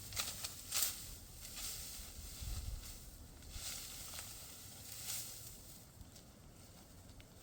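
Dry wheat stalks rustling in a string of short swishes that fade out after about five seconds.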